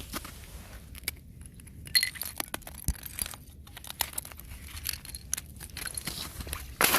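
Thin fresh ice being broken and handled: scattered sharp clicks and glassy tinkling of ice shards, with one clear ringing strike about two seconds in. A loud crunch of breaking ice comes right at the end.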